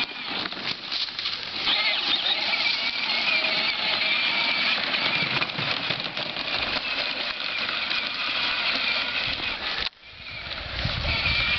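A child's John Deere battery-powered ride-on toy tractor driving along: a steady electric motor and gearbox whine over the rumble of its wheels. It cuts out suddenly near the end, then starts up again.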